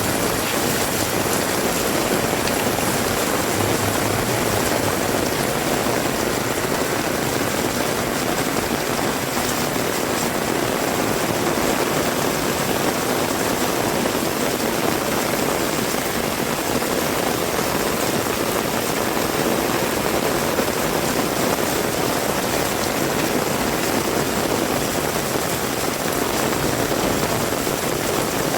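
Heavy rain falling steadily, an even, continuous hiss of downpour.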